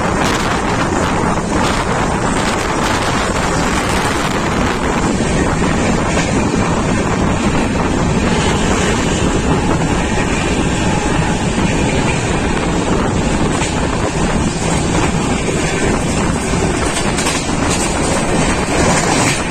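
Wind buffeting the microphone at the open door of a moving train coach, over the steady rumble of the wheels on the rails, with a few faint clicks.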